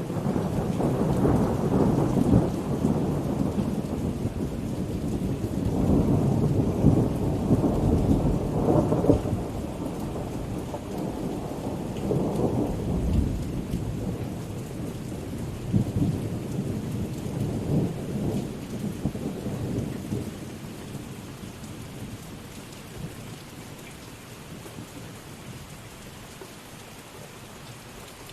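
Steady rain with long rolling thunder, the rumbles swelling and fading several times before dying away in the last third, leaving the rain's hiss.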